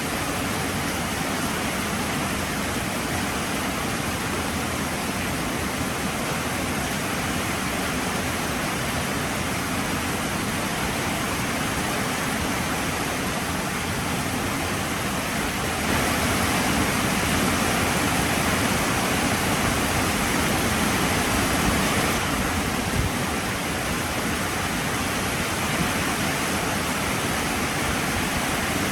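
Heavy rain pouring down in a steady, dense hiss that gets louder for several seconds past the middle, then eases back.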